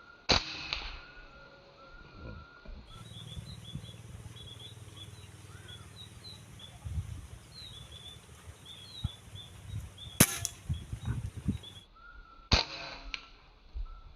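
Three sharp shots from a bird-hunting gun: one just after the start and two more close together near the end, with small birds chirping in short repeated notes between them.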